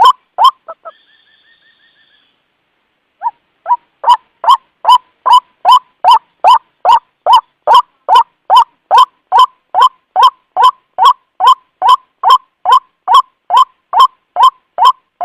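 White-breasted waterhen's lure call: a loud, hoarse note repeated about two and a half times a second. It breaks off just under a second in, a faint higher call follows, and after a short gap the series resumes at the same steady pace.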